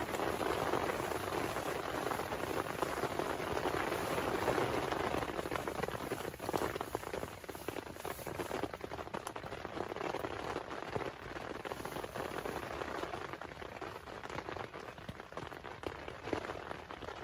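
Heavy rain falling and pattering on a surface as a dense hiss of drops, growing lighter over the second half.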